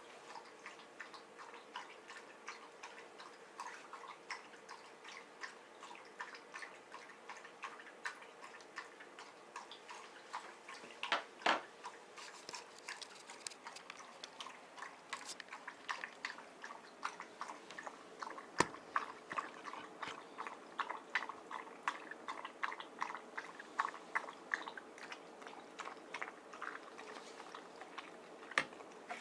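Miniature dachshund eating from its bowl: a steady run of small chewing and crunching clicks, several a second, with a couple of louder clicks midway.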